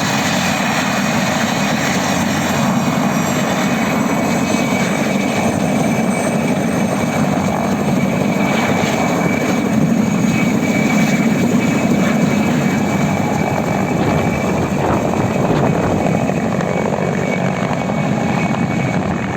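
Mi-2 helicopter's twin turboshaft engines and main rotor running at takeoff, a steady turbine whine over loud continuous rotor noise, growing a little louder about nine seconds in.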